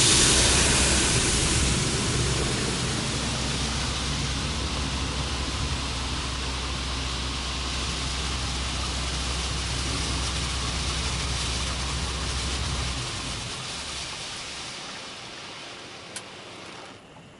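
Belanger Vector touchless car wash's second arm spraying high-pressure soap onto the car: a loud, steady water hiss over a low pump hum. The hum cuts off about three-quarters of the way through, and the spray then fades away, with one small click near the end.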